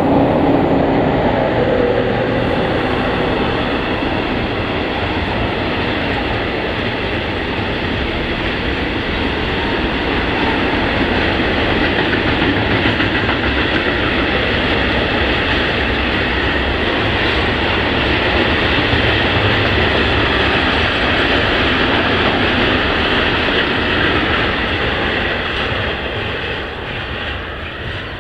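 Long freight train of hooded goods wagons rolling past, a steady loud rumble of wheels on rails with clatter from the wagons, fading over the last few seconds as the end of the train moves away.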